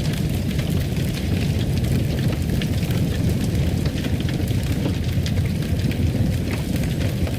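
Wood fire burning in a fireplace: a steady low rumble with frequent scattered crackles and pops.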